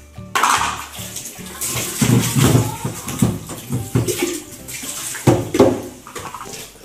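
Water running from a tap and splashing into a steel water jar as it is scrubbed and rinsed in a sink, with irregular sloshing and knocks of the metal.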